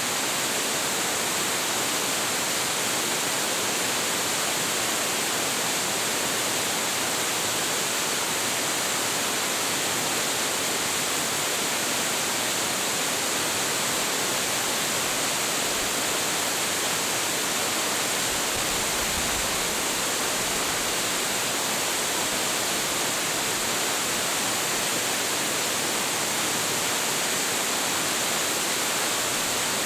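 A large, high-volume waterfall, 25.7 m high, pouring steadily: an even, unbroken rush of falling water with a bright hiss.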